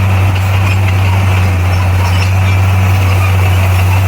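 Bulldozer's diesel engine running steadily with an even, deep drone.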